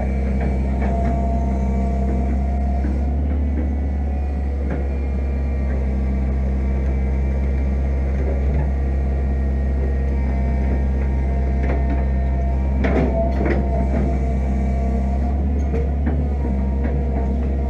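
Fiat-Hitachi EX165 crawler excavator's diesel engine running steadily as it digs, with a few sharp knocks about two thirds of the way through and again at the end.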